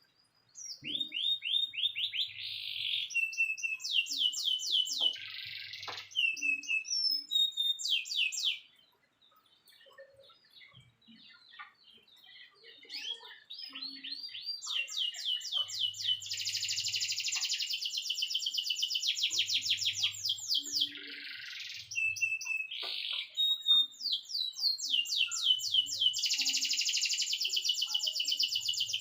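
Domestic canary singing in long, fast trills and rolling runs of rapidly repeated high notes, in two long stretches of song with a quieter spell of scattered chirps between them, roughly a third of the way through.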